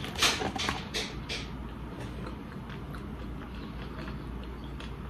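A person chewing a mouthful of fries: a quick run of wet clicks and smacks in the first second and a half, then softer, sparser chewing.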